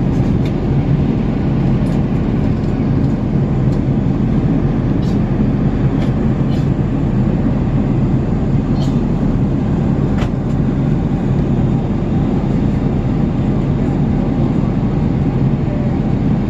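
Steady cabin noise of an Airbus A380 in flight: a dense, low rush of engine and airflow, with a few faint clicks.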